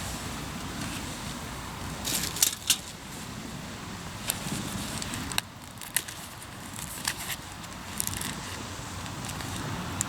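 Hardwood campfire crackling with scattered sharp pops, a quick cluster about two seconds in, over a steady low rumble of surf.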